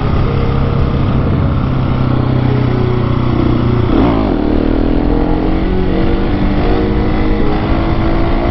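Husqvarna 701 Supermoto's single-cylinder engine running under way while being ridden; about four seconds in the engine note drops sharply and then climbs again, as with a gear change or a roll off and back on the throttle.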